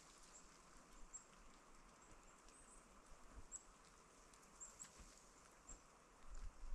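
Near silence in winter woods: faint, short high chirps scattered throughout, and a few soft low thuds near the end.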